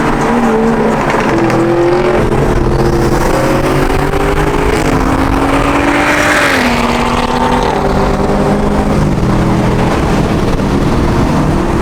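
Several car engines running at once, revving and dropping back so their pitches rise and fall and cross one another. A short rushing noise stands out about six seconds in.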